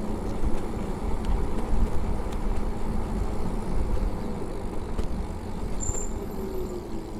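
Wind buffeting the microphone and tyre noise from a moving electric bike, with a faint motor whine that falls in pitch in the last couple of seconds as the bike slows.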